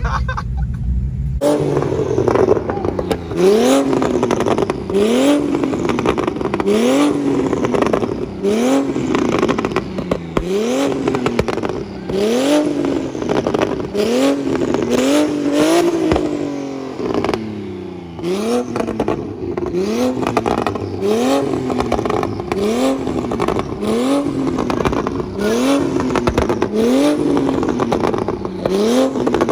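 Car engine revved hard over and over, its pitch climbing and dropping back about once every two seconds, with sharp pops between the revs; a low rumble comes before it in the first second or so.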